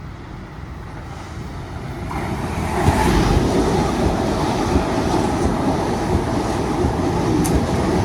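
NSW TrainLink Mariyung electric intercity train (D set) running through the station platform without stopping: a rushing rumble of wheels and air that builds from about two seconds in and stays loud as the carriages go past.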